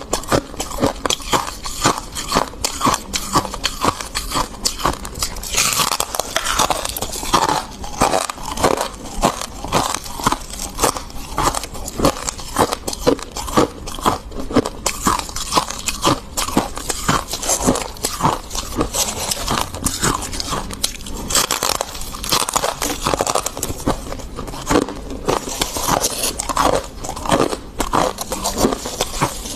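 Close-up crunching of freezer frost being bitten and chewed, with repeated crisp crunches several times a second.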